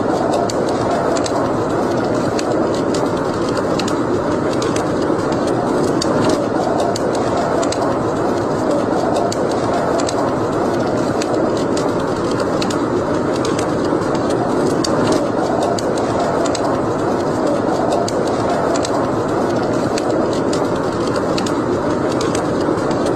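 Wood fire burning in a fireplace: a steady rush of flame with scattered sharp crackles and pops throughout.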